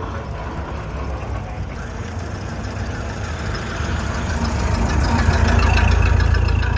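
An old car's engine running, growing louder over the last few seconds as it comes near.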